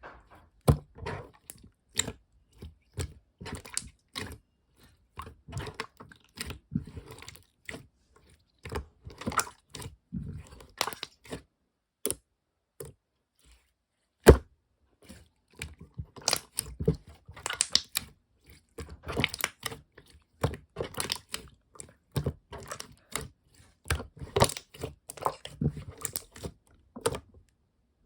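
Slime being squeezed, stretched and poked by hand, making irregular sticky pops, clicks and crackles, with one sharper, louder click about fourteen seconds in.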